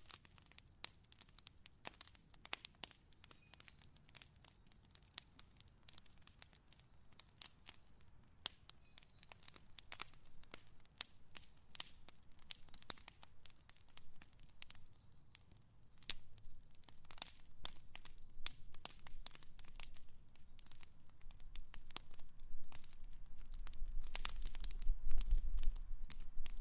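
Fire crackling, with sharp, irregular pops and snaps over a faint hiss. A low rumble builds over the last few seconds.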